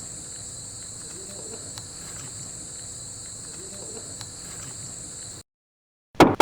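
Crickets chirping in a steady high-pitched chorus, with a few faint ticks. It cuts off suddenly about five seconds in, and a loud knocking sound begins just at the end.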